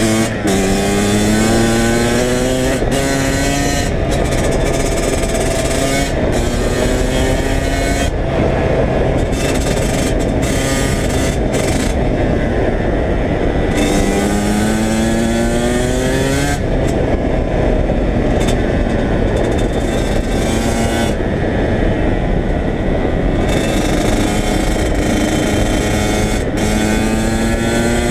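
Two-stroke Kawasaki KX100 dirt bike engine running under way. Its pitch climbs and drops back several times as it revs up and shifts through the gears.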